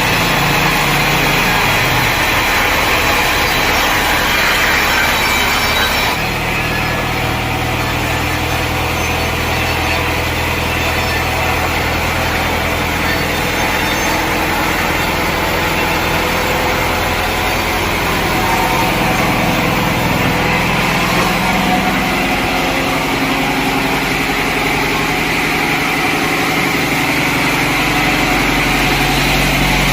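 Engine-driven sawmill saw cutting through a log, the engine running steadily under load. Its note shifts about six seconds in and again around twenty seconds in.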